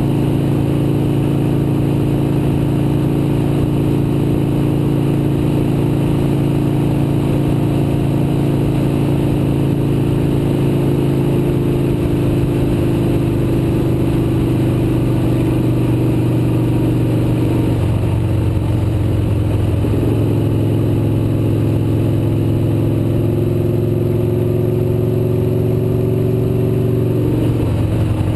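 Motorcycle engine running steadily under way, its note breaking and shifting briefly a little after halfway and again near the end.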